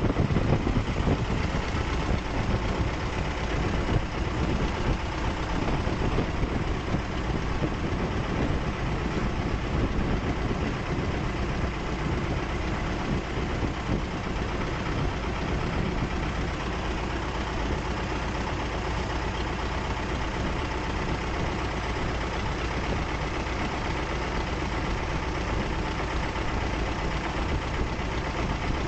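Motorboat engine running steadily under way, a little louder and rougher over the first ten seconds or so, then even.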